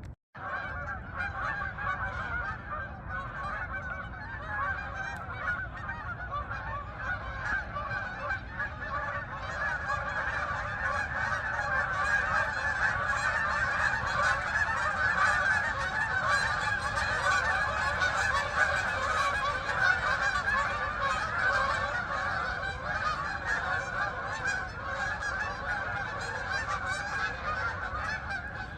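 A flock of geese honking continuously, many calls overlapping, the honking swelling louder in the middle.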